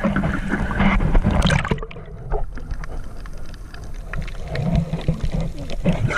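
Sea water sloshing and gurgling with a low rumbling buffet, louder in the first two seconds and quieter after.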